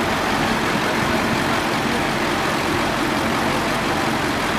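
Heavy vehicle engine running steadily at a low, even pitch.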